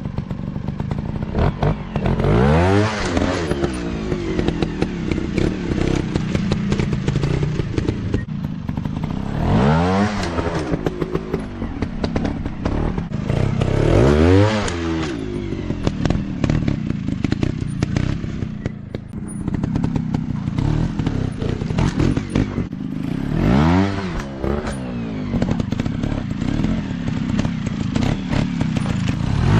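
Dirt bike engines running, with the pitch rising and falling sharply several times as the throttle is opened and closed, over a steady engine drone.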